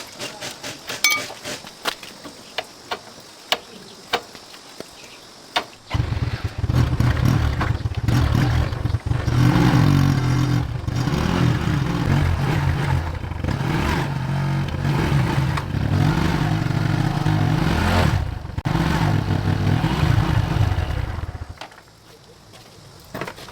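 Tractor engine starting abruptly about six seconds in, after a few clicks and knocks, then running for about fifteen seconds before it stops.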